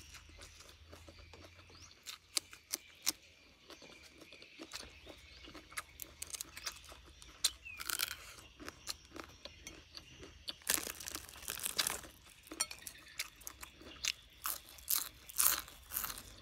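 Close-up chewing and crunching of fried fish and raw carrot: irregular crisp crunches and mouth clicks, louder and thicker from about ten seconds in.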